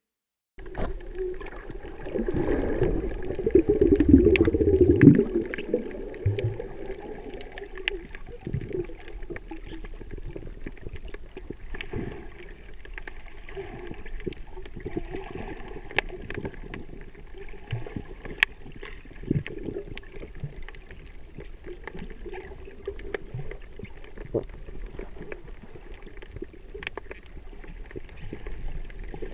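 Water rushing and splashing past a sailboat's hull under way, with wind on the microphone and scattered knocks, louder for a few seconds near the start.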